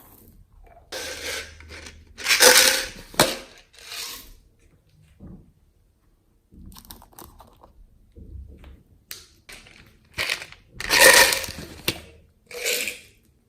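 Slime being squeezed, pressed and pulled apart by hand, in several bursts of sticky, squishing noise with sharp clicks and pops. The two loudest bursts come about two and a half seconds in and about eleven seconds in, with a quiet stretch in between.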